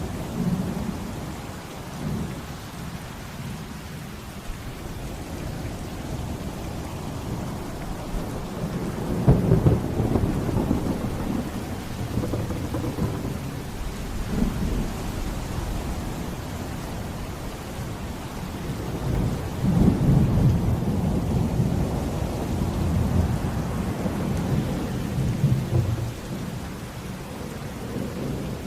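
Thunderstorm: steady heavy rain with rolling thunder, the low rumbles swelling about a third of the way in and again for several seconds past two-thirds.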